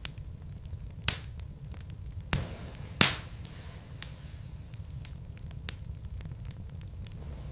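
Wood logs burning in a fireplace, crackling: a steady low rumble with scattered sharp pops, the loudest about three seconds in, one trailing a brief hiss just after two seconds.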